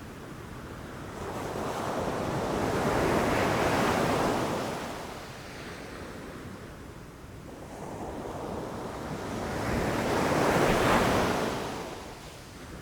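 Ocean waves breaking on a beach, two swells of surf about eight seconds apart, each rising to a crash and washing back.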